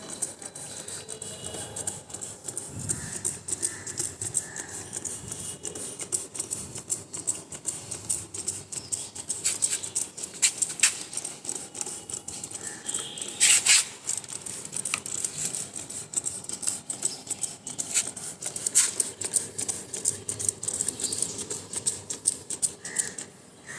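Ducati Multistrada 1200S drive chain being scrubbed clean with diesel: a dense, uneven run of scratching and clicking, with a louder scrape about halfway through.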